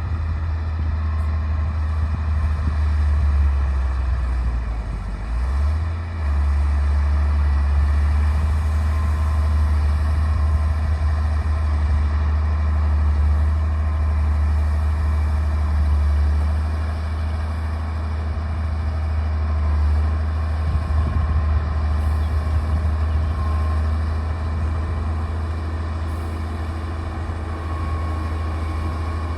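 D60 bulldozer's diesel engine running steadily with a deep drone, dipping briefly about five seconds in before picking back up.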